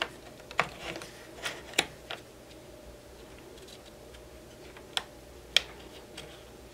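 Sharp plastic clicks and taps as a DC coupler dummy battery is pushed into a Canon Rebel's battery compartment and its cord is pressed into the side cord slot. There are several clicks in the first two seconds, then two more about five seconds in.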